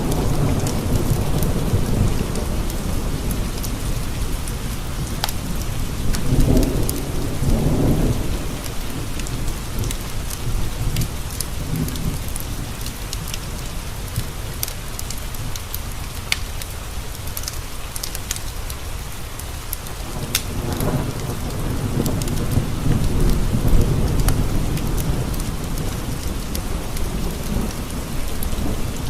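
Steady rain pattering against windows, with low rolling thunder swelling a few seconds in and again past the middle, and scattered sharp crackles and pops from a wood fire in a fireplace.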